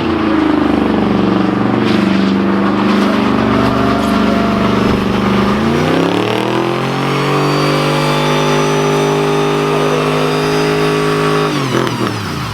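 Car engine held at high revs during a burnout. The revs climb about six seconds in, hold steady and high, then drop off near the end.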